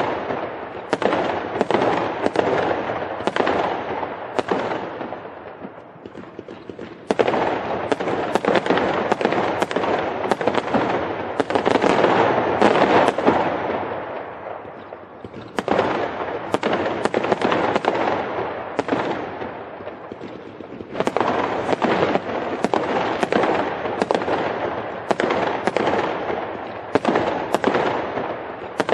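Firecrackers and fireworks going off: dense crackling with many sharp louder bangs over it. The crackling swells and fades in waves and starts up again abruptly about 7 seconds in and again about 21 seconds in.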